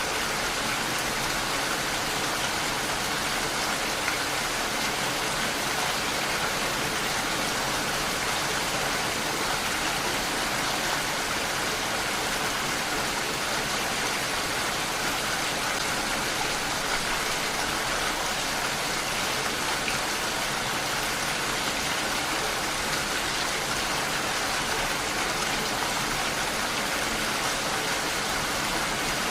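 Steady heavy rain falling, a continuous even hiss of drops without pauses or changes.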